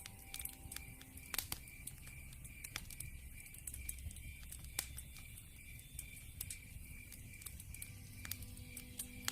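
Log fire crackling, with scattered sharp pops (a loud one about a second and a half in) over a low rumble. Behind it is a steady high chirp repeating about two and a half times a second, an insect-like night sound.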